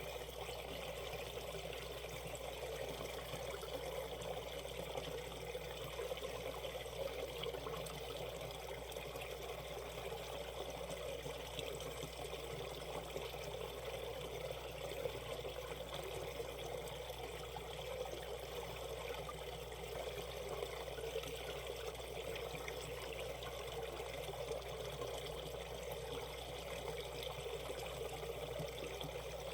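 Shallow valley stream flowing over rocks in a riffle: a steady babble and trickle of running water.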